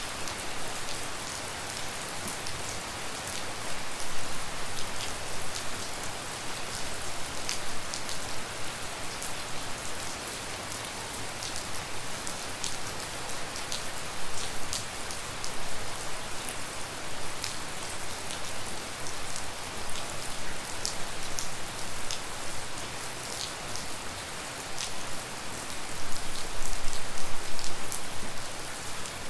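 Steady tropical rain falling, with many separate drops ticking sharply over the even hiss. It swells louder about four seconds in and again near the end.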